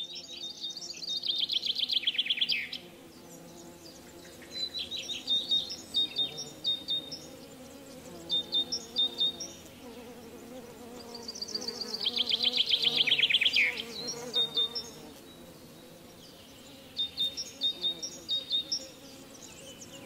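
Bird chirping in quick, rattling trilled phrases, five bursts of song separated by short pauses, over a steady low buzzing hum.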